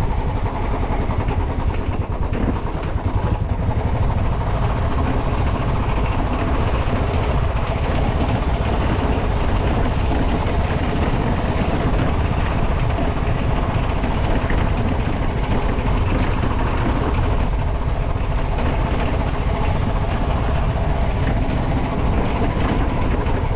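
Motorcycle engine running steadily while under way, with a heavy low rumble.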